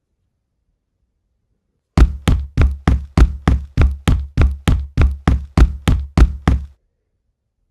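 A steady run of about sixteen sharp knocks, evenly spaced at roughly three a second, starting about two seconds in and stopping under five seconds later.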